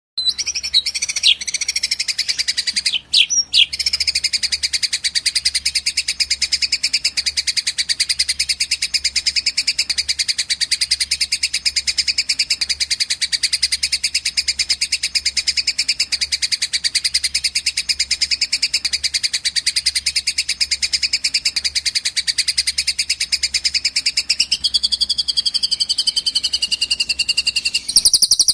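Recorded songbird calls from a bird-training track: one long, unbroken, very rapid high trill with a brief break about three seconds in. A lower, wavering whistled phrase joins near the end, and then the recording cuts suddenly to a different bird segment.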